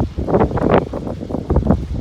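Strong wind buffeting the microphone in uneven gusts, with the loudest gust about half a second in.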